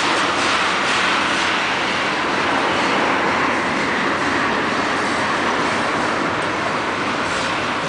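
Freight train of tank cars rolling past: a steady, even noise of steel wheels running on the rails.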